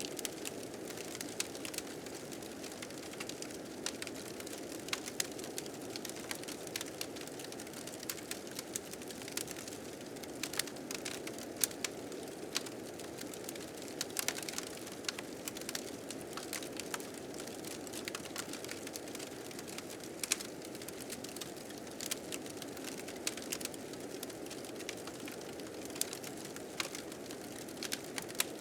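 A wood fire crackling with frequent irregular snaps and pops, over the steady rush of blizzard wind.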